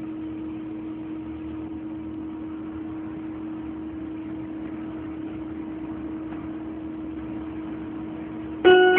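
A steady low hum over an even hiss. Near the end a plucked, keyboard-like melody starts.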